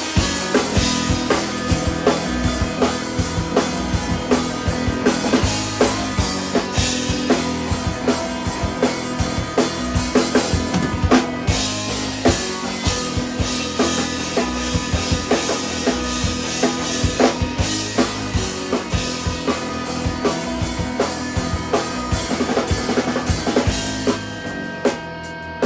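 Three-piece instrumental band playing live, with a drum kit's kick and snare beating steadily under guitar. The playing thins out near the end.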